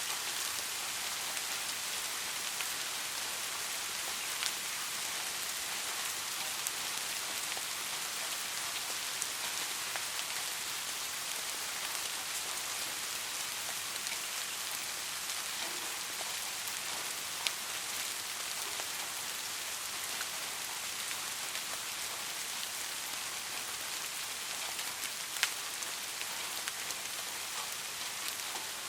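Steady rain falling on a street: an even hiss with a few louder single drop hits now and then.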